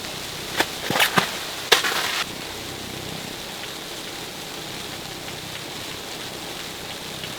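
Four or five sharp knocks in the first two seconds, the last followed by a short rustle, then a steady hiss of background noise.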